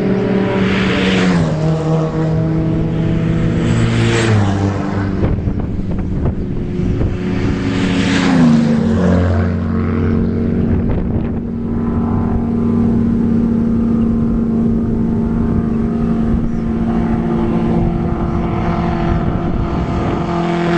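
Vintage race car engines running, several cars going by in turn with a brief rush at about one, four and eight seconds in and again at the end. The engine notes drop in pitch as they pass, then settle into one long steady note.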